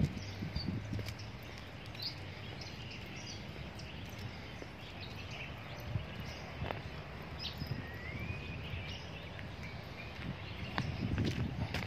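Small birds chirping over a steady outdoor background hum, with a rising whistled note about eight seconds in. Low thumps near the start and again near the end.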